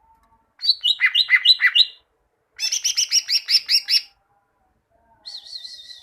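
Green leafbird (cucak ijo) singing in three quick phrases of rapidly repeated, down-slurred chirps, each lasting about one to one and a half seconds, with short pauses between; the last phrase is softer.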